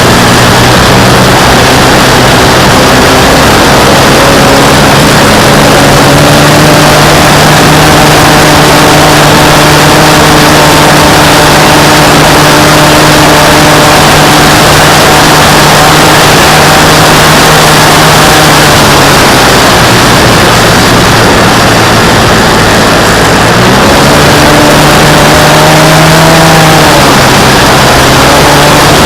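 An RC model airplane's motor and propeller, heard very loud and close with air rushing past. The pitch steps up and down several times as the throttle changes: up about five seconds in, down around two-thirds of the way through, then briefly up again and back down near the end.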